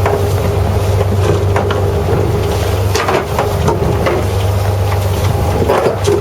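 Fishing boat's engine running steadily with a low hum, with scattered knocks and clatters.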